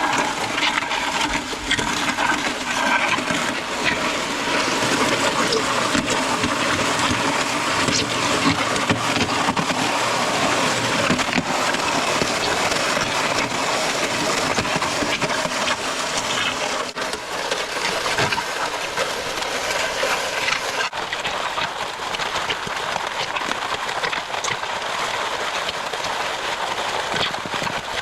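MudMixer concrete mixer running steadily during a concrete pour, a dense continuous machine noise.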